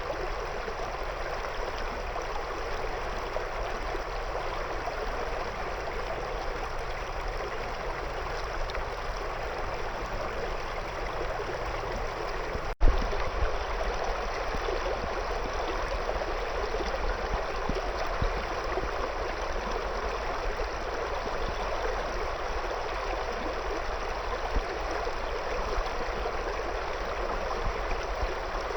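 River water flowing and gurgling around stones in a steady rush. About 13 seconds in the sound cuts out for an instant with a sharp click, then carries on.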